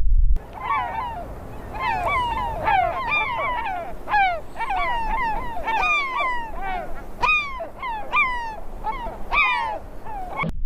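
A flock of birds calling: many short, falling calls overlapping, several a second, honking in character.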